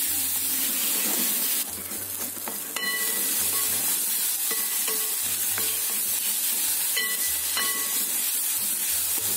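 Chopped onions and tomatoes sizzling in hot oil in an aluminium kadai while being stirred with a wooden spatula. The spatula knocks against the metal pan several times, each knock ringing briefly. The sizzle dips for about a second around two seconds in.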